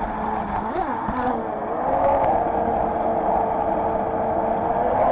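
Radio-control jet boat's motor running under way, heard from a camera on board, with a whine that dips and rises in pitch with the throttle about a second in and then holds steady. The motor gets louder about two seconds in, over a constant rush of noise from the water jet and the river.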